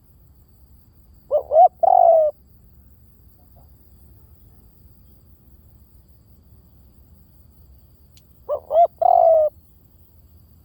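Spotted dove cooing: two calls about seven seconds apart, each two short coos followed by a longer, wavering coo.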